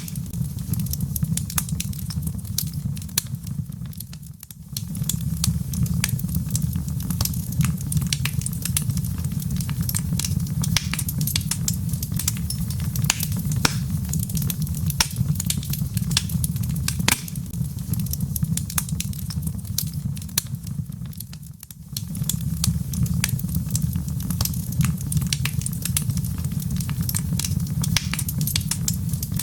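Wood fire in a fireplace crackling, with frequent sharp pops and snaps over a steady low rumble. The rumble dips away briefly twice, about four seconds in and again about twenty-one seconds in.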